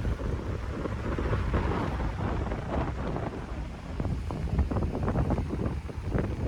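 Wind buffeting the microphone outdoors, an uneven gusty rumble.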